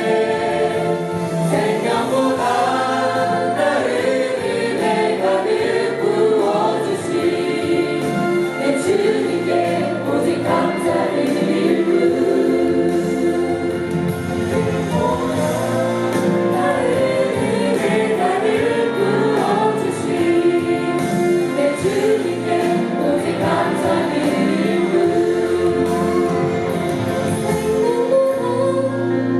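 A church choir singing a gospel worship song in unison and harmony, held notes flowing continuously.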